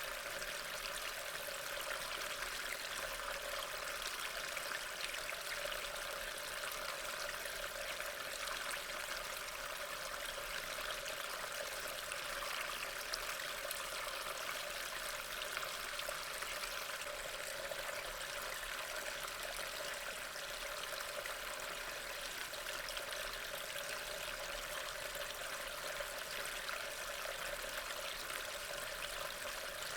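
Steady rain, an even, unbroken hiss of falling water.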